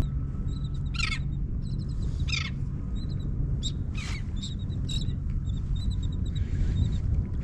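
Birds calling over open water: many short, high chirps repeating, with three louder calls that fall in pitch, over a steady low rumble of wind on the microphone.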